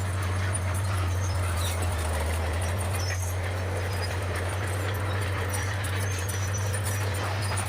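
Bulldozer running with a steady low diesel drone and faint clattering on top.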